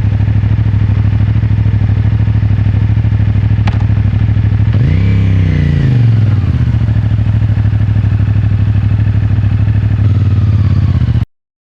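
CFMOTO 450MT's parallel-twin engine idling steadily, with one quick throttle blip about five seconds in that rises and falls back to idle. The sound cuts off abruptly near the end.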